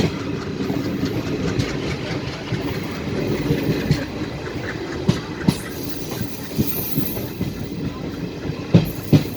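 Train wheels clattering over rail joints and points, a steady rumble broken by irregular sharp knocks, the loudest two near the end.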